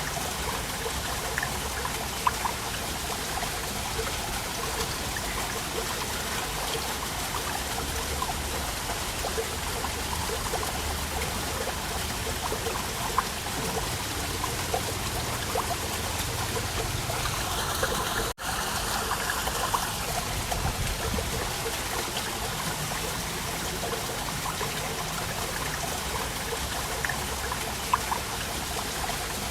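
Small waterfall: water splashing and trickling steadily, with scattered little splashes. There is a momentary dropout a little under two-thirds of the way through.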